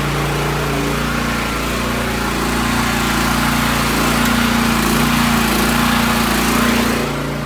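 Portable gasoline generator's small engine running steadily under load, powering the house. Near the end it turns quieter and duller.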